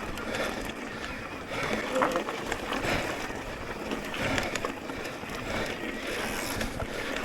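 Electric mountain bike rolling along a dirt trail: a steady rush of tyre and riding noise with scattered small rattles and clicks from the bike.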